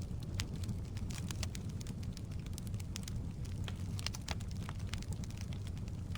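Firewood burning in a fireplace: a steady low rush of flame with frequent, irregular sharp crackles and pops from the logs.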